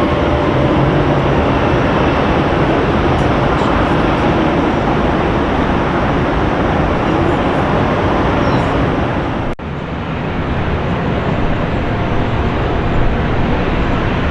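Jet airliner engine noise close by, a loud, steady, rumbling rush. It drops out for an instant about nine and a half seconds in, then carries on.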